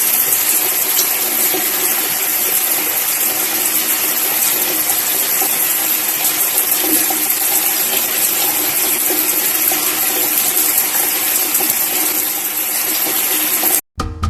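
Steady rush of running water, starting and stopping abruptly.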